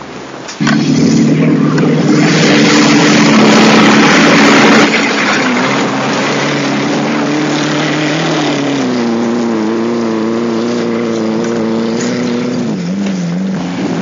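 Trials car's engine running hard under load as the car climbs a rough grassy hill, close by. The drone starts suddenly about half a second in with a loud rushing noise over it for the first few seconds, then steps up in pitch and wavers near the end.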